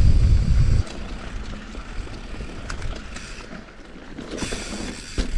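Wind buffeting the microphone as a low rumble that cuts off abruptly about a second in, followed by quieter rustling and a few small clicks and knocks.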